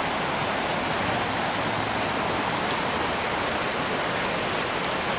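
Rain-swollen creek rushing fast, a steady full rush of water.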